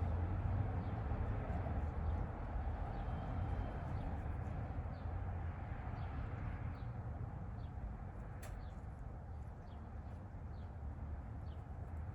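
A steady low rumble that slowly fades, with faint, short, high bird chirps scattered through it.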